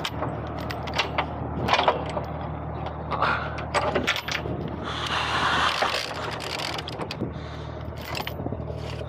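Heavy truck engine idling steadily, with several sharp metallic knocks and clanks over it and a scraping rush about five seconds in.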